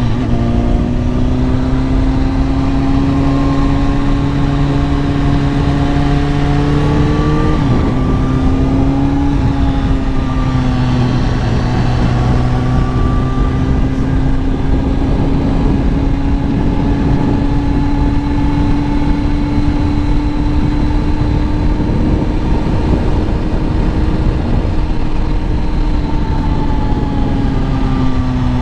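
Kawasaki ZX-10R inline-four engine pulling steadily at cruising revs, heard from the rider's position with wind noise. The engine pitch dips briefly and climbs back about seven to nine seconds in, then holds level, easing slightly near the end.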